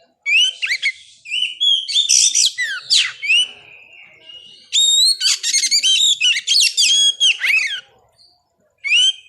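Oriental magpie-robin (kacer) singing: loud phrases of varied whistles, pitch sweeps and rapid chattering notes, broken by short pauses, with a brief final phrase near the end.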